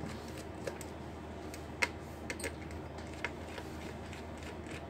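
Scattered light clicks and taps of small tools and parts being handled on an opened laptop during battery removal, one sharper click just under two seconds in.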